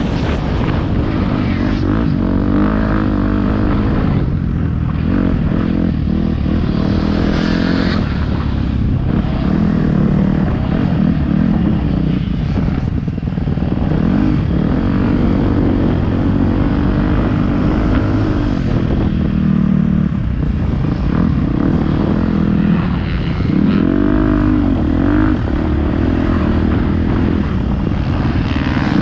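Motocross bike engine running hard, its pitch rising and falling over and over as the throttle is opened and closed and gears change, with heavy wind rumble on the onboard microphone.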